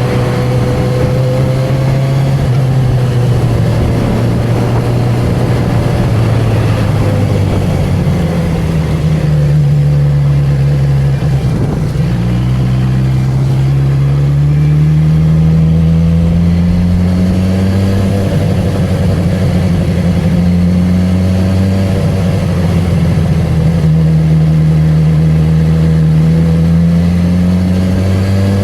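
Honda CB1000R's inline-four engine and exhaust under way. The pitch rises and falls with throttle and gear changes, with a long climbing pull from a little under halfway and another gentler climb near the end.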